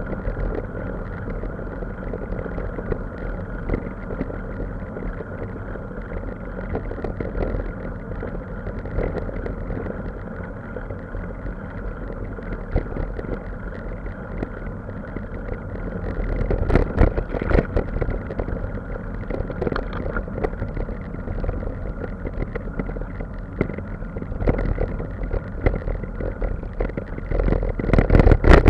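A motor running steadily, louder for a stretch about two-thirds of the way through and again near the end.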